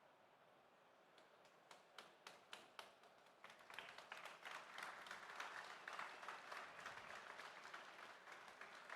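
Audience applause: a few scattered claps at first, building into steady clapping from a crowd.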